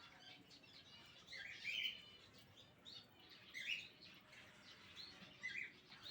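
Pineapple conure, a colour mutation of the green-cheeked conure, giving short chirping calls. Three louder calls come roughly two seconds apart, with softer chirps between.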